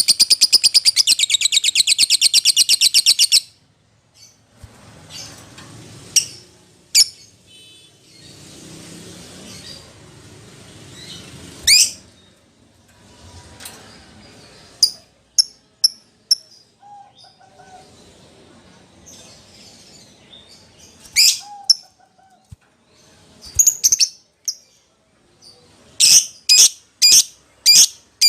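Lovebird calling: a rapid, continuous high chatter that stops about three and a half seconds in. Scattered single sharp, shrill calls follow, and near the end comes a run of sharp calls about two a second.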